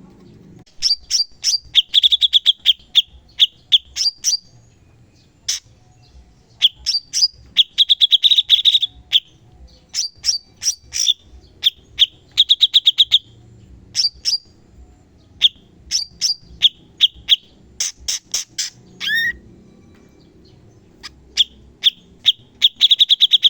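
Cucak cungkok songbird calling: bursts of sharp, rapid chattering notes and short high trills, separated by brief pauses, with one falling whistle about 19 seconds in.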